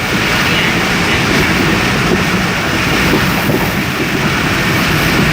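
Steady rumble and rush of a moving passenger train, heard from on board.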